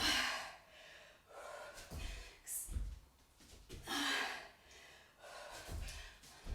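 A woman breathing hard during jump squats, with sharp gasping breaths about every two seconds and dull low thumps under some of them.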